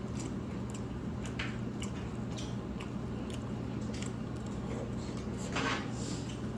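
A person chewing noodles close to the microphone: soft, wet mouth clicks and squishes scattered through, with one louder mouth sound about five and a half seconds in, over a steady low hum.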